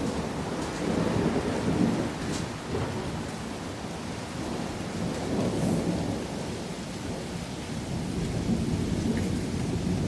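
Thunder rumbling on and on from a distant storm, over steady rain. The rumble swells about a second in and again a little past the middle.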